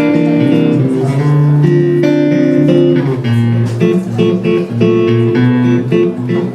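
Guitar playing chords, with notes picked and strummed, in the instrumental intro of a song.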